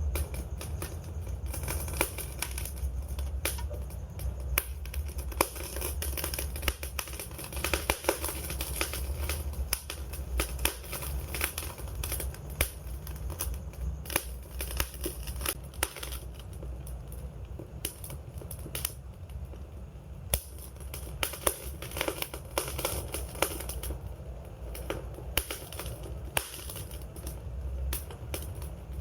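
Wood fire crackling: frequent, irregular sharp pops and snaps of burning wood over a low, steady rumble.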